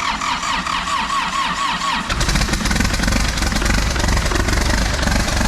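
Caterpillar backhoe diesel engine cranking on the starter with about four pulses a second, then catching about two seconds in and running, much deeper and louder. It is the engine's first start after the machine rolled over, and it fires right up.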